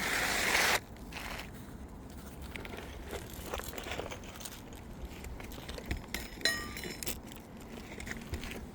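Old three-tab asphalt shingle being handled on a roof: a short rasping scrape at the start, then faint scuffs and crackles of the gritty shingle, and a metal tool clinking with a brief ring about six and a half seconds in.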